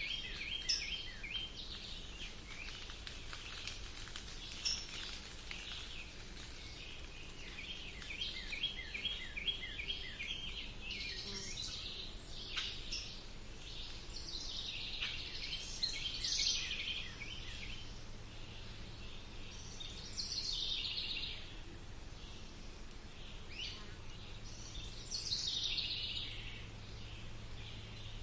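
Several wild birds singing and calling at once in woodland: quick runs of repeated chirps and a number of high trills that slide downward in pitch, one after another. A faint steady low hum lies underneath.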